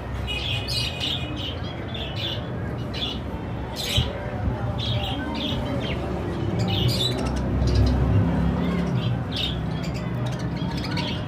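Budgerigars chirping and chattering in many short, high calls in quick succession, over a steady low rumble, with a single sharp click about four seconds in.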